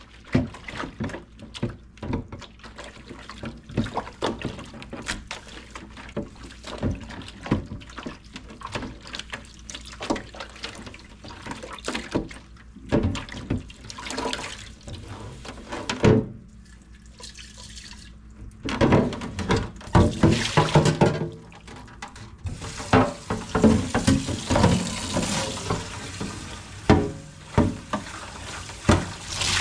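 Clatter and knocks of containers and items being handled and set down, many sharp clicks throughout. From about two-thirds of the way through, a kitchen faucet runs with a steady hiss of water into the sink.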